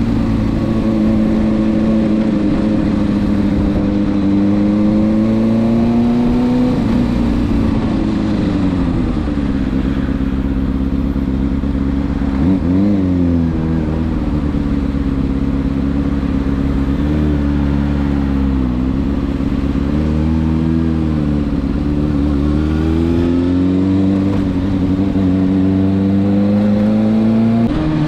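Kawasaki ZX-6R's inline-four engine through a LeoVince SBK titanium exhaust, heard while riding. The engine note climbs and falls several times with the throttle and gear changes, with a quick sharp rise and drop in pitch about twelve seconds in.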